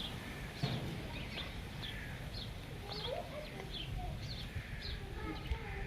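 Ringneck parrot giving a series of short, high chirps, about two a second, with a few lower warbling notes in between.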